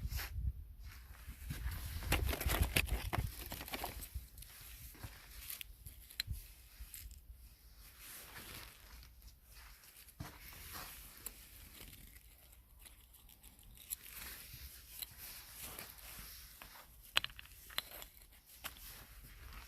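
Irregular crackling and rustling with tearing-like sounds, loudest and busiest in the first few seconds along with a low rumble, then sparser, with a few sharp clicks near the end.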